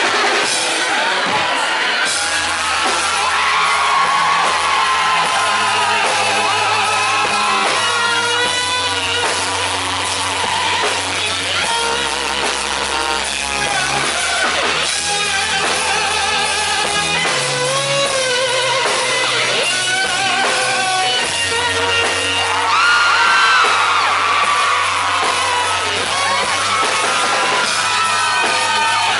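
Live rock band playing at full volume: electric guitar lines and singing over held bass notes that change every few seconds, recorded from the audience in a large hall.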